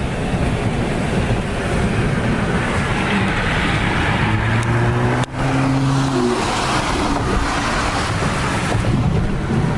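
Straight-piped third-generation Acura TL V6 exhaust droning at highway cruise under dense wind and road noise. The sound dips briefly about five seconds in.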